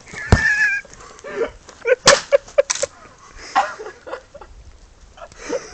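Stick blows on a campfire: sharp cracks, the loudest about a third of a second in and again about two seconds in, among smaller clicks and knocks. A brief high squeal comes near the start.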